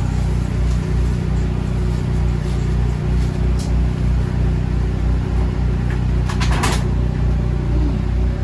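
Steady low engine drone, with a brief rattling clatter about six and a half seconds in.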